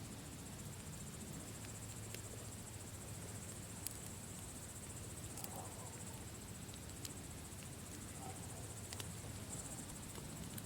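Campfire crackling, with sharp pops every second or two, over a steady high chirring of crickets.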